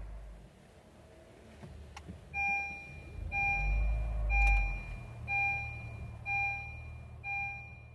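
A car's electronic warning chime beeps six times, about once a second, after a single click. A low engine rumble dies away at the start.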